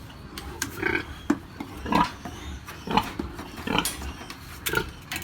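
Pigs grunting in a barn: a string of short grunts, about one a second.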